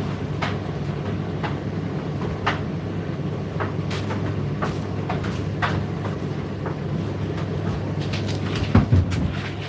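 Indesit IDC8T3 condenser tumble dryer running mid-cycle: a steady low motor and drum hum with irregular light clicks and taps from the tumbling load, and a couple of louder knocks near the end.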